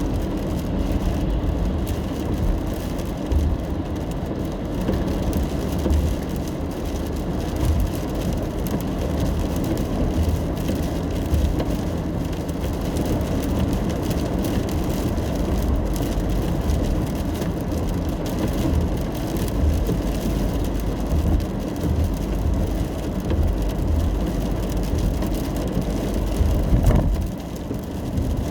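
A car driving in the rain: a steady low road and engine rumble with the hiss of rain and tyre spray. Near the end there is a brief louder swell, then a short dip.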